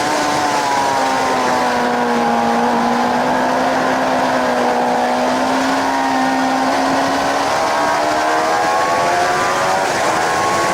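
Suzuki GSX-R 750 K7's inline-four engine running at track speed, under heavy wind rush. Its pitch drops over the first couple of seconds, holds fairly steady, then climbs again over the last few seconds, with a brief break in the note around eight seconds in.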